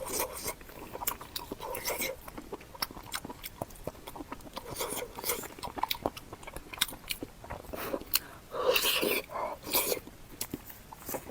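Close-miked eating: chewing and biting with many short wet mouth clicks, busiest about three-quarters of the way through.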